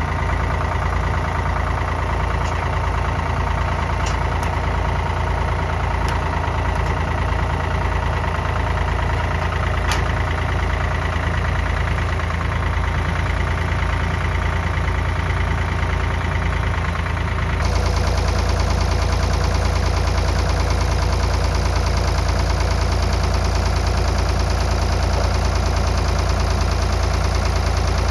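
Farm tractor engine running steadily while it moves a red oak log onto a portable sawmill. About two-thirds of the way in it gets a little louder and brighter.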